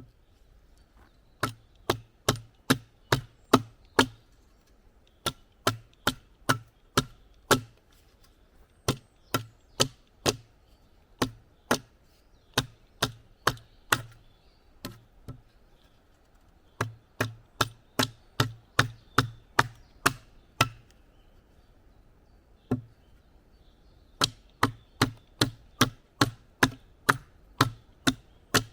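Wood being chopped with quick, regular blows, about two or three a second, in runs broken by short pauses.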